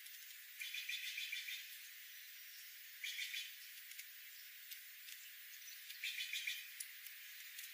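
An animal's pulsed trilling call, heard three times about three seconds apart, each trill under a second long, over a faint hiss.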